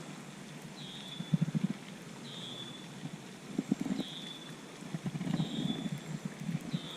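A short, high falling call from an animal repeats about every second and a half, over irregular bunches of low knocking and rattling.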